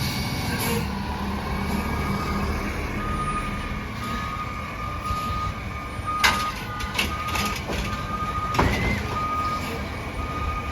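Autocar ACX garbage truck backing up: its reverse alarm sounds a repeating single-pitched beep from about three seconds in, over the steady rumble of the running engine. A couple of sharp knocks come around the middle.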